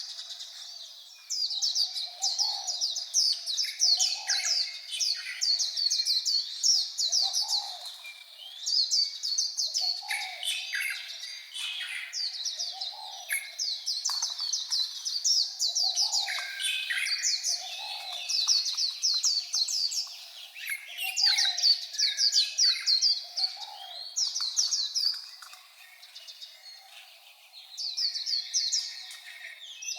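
White-eye (vành khuyên) singing: fast, high twittering phrases of rapid chirps, each lasting a few seconds with short pauses between them. Underneath, a soft low note repeats about every second and a half.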